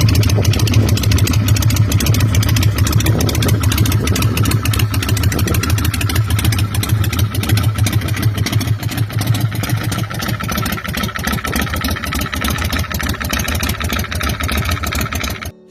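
Harley-Davidson V-twin engine of a 1997 California Motorcycle Company Rocket 88 motorcycle, running steadily and loudly, then cutting off suddenly near the end.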